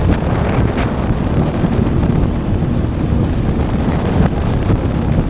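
Wind buffeting the microphone on a moving boat, a steady low rumble.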